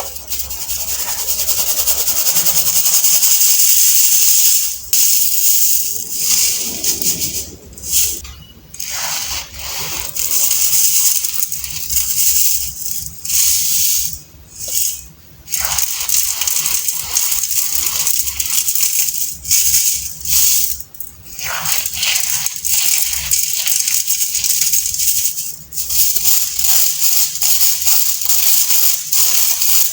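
Reformed baking soda being crushed by hand, a dense, crunchy crackling in long squeezes broken by brief pauses every few seconds.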